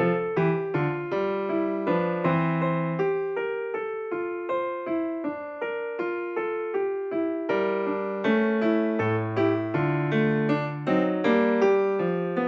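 Slow, gentle instrumental music: an electric piano playing a steady run of single notes with a bass line beneath, each note struck and fading.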